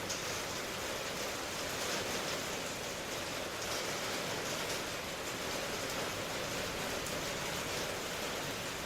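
Steady rainfall, an even hiss with faint patter of drops on a surface.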